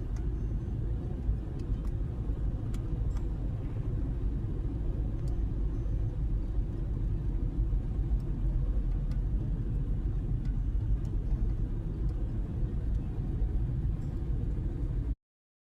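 Steady low road and engine rumble of a car driving, heard from inside the cabin. It cuts off abruptly to silence near the end.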